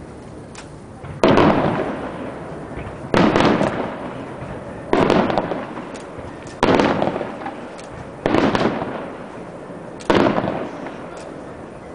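Six fireworks shells bursting one after another, about every second and a half to two seconds. Each is a sudden loud bang that trails off in echo over about a second.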